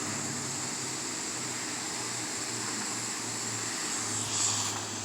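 Steady mechanical drone of car wash machinery running: a low hum and a constant high whine over a hiss.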